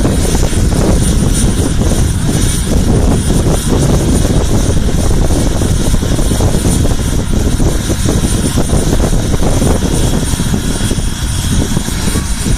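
Bell 206L LongRanger helicopter's turboshaft engine and rotor running steadily: a thin high turbine whine over a dense low rumble of rotor noise.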